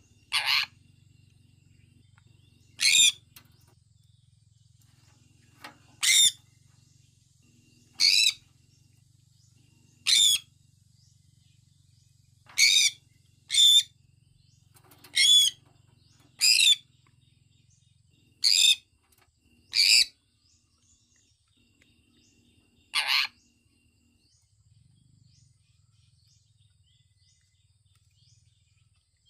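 Sun conure calling: about a dozen short, loud calls, each well under a second, coming every one to three seconds, then stopping some six seconds before the end.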